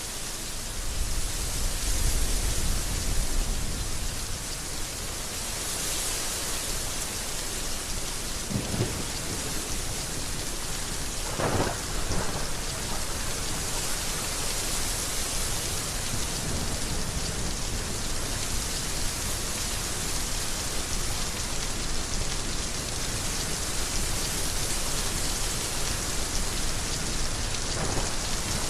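Heavy rain falling steadily, with thunder rumbling low and loudest from about one to four seconds in. A couple of brief sharper claps stand out about nine and twelve seconds in.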